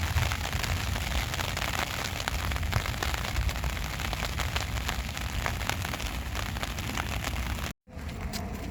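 Steady rain pattering densely on the ground and surfaces, many small drop ticks over a hiss, with a low rumble of wind on the microphone.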